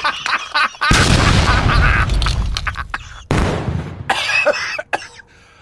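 Loud crashing noise for about a second, then a sudden loud bang that dies away, followed by a few smaller knocks.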